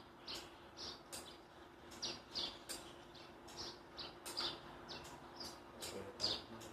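Small birds chirping: short, sharp, high chirps, two or three a second and unevenly spaced, over a faint steady hum.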